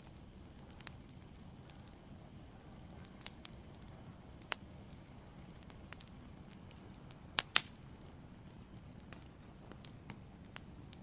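Wood fire in a fireplace crackling: irregular sharp pops and snaps over a low steady hiss of burning, the loudest a quick pair of pops about seven and a half seconds in.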